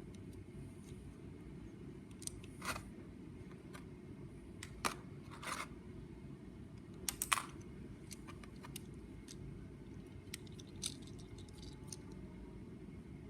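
Light plastic clicks and rattles of LEGO Technic parts, coming irregularly, singly or a few at a time, over a low steady hum.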